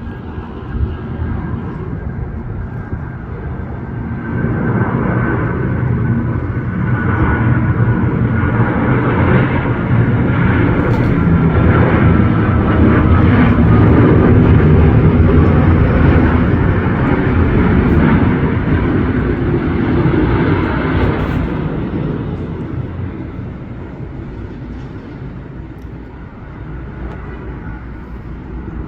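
Airbus A330 airliner's jet engines passing by on its landing approach, swelling over about ten seconds to a peak and then fading away. A faint whine in the engine noise drops slightly in pitch as it passes.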